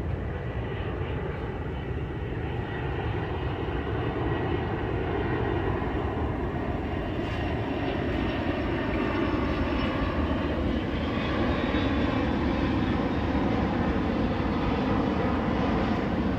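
Jet engines of a UPS Boeing 767-300 freighter: a steady rumble and roar growing gradually louder, with a faint whine rising in pitch in the second half.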